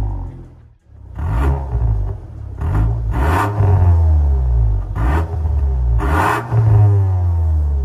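Škoda Octavia RS's 2.0-litre turbocharged four-cylinder through a valved cat-back exhaust, its revs rising and falling repeatedly, with several short crackling bursts among them. The sound cuts out briefly about a second in.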